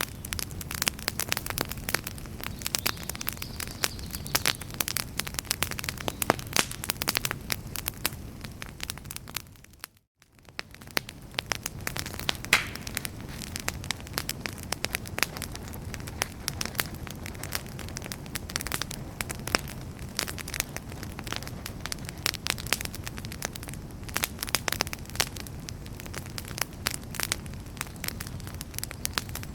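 Wood campfire crackling and popping with irregular sharp snaps over a steady low rush of flames. About ten seconds in the sound briefly fades out to near silence and then fades back in.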